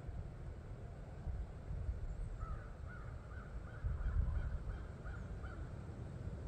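A bird calling in a series of about nine short, evenly spaced notes, about three a second, over a steady low rumble.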